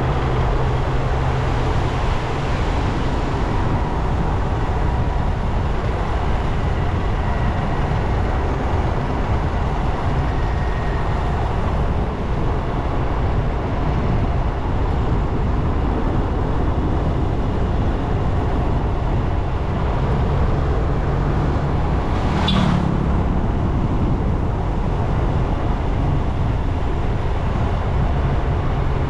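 Motorcycle engine running steadily under way, with road noise. A single short sharp sound about two-thirds of the way through.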